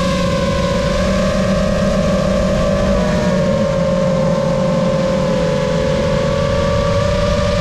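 Lumenier QAV-S 5-inch FPV quad's brushless motors whining in flight, their pitch drifting gently up and down, over a low rush of noise.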